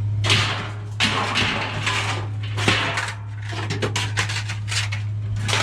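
Scrap metal clattering and clanking as pieces are thrown and dropped in quick, irregular knocks, over a steady low hum.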